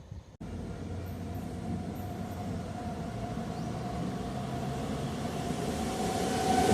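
A train approaching, its running noise growing steadily louder, with a steady low hum and a higher steady tone running through it. The sound starts abruptly about half a second in.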